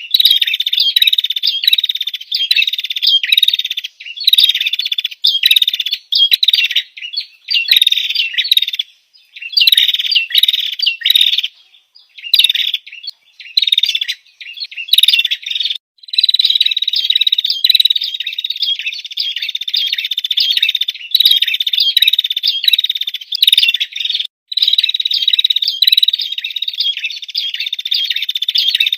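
Female prenjak (prinia) calling: fast runs of sharp chirping notes, with short breaks between the runs.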